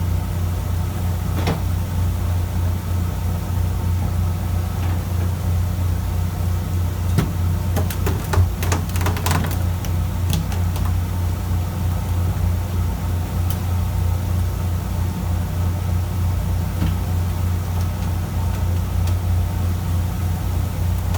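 Fishing boat's engine running steadily with a low, even hum. A short cluster of clicks and knocks comes about seven to ten seconds in.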